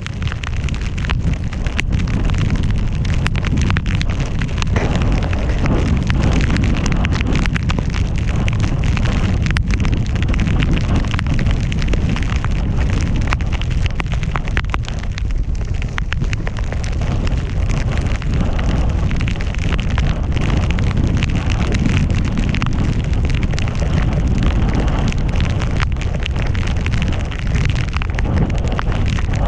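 Wind buffeting an action camera's microphone during a fast descent through deep powder snow, a loud steady low rush with a constant crackle and hiss of snow spraying and sliding under the rider.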